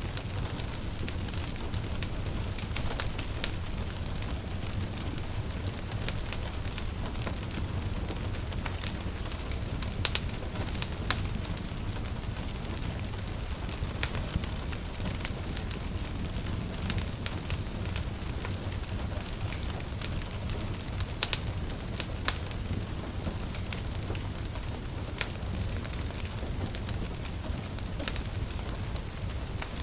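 Wood fire crackling, with irregular sharp pops and snaps, a few louder ones, over gentle rain falling steadily with a soft low rumble.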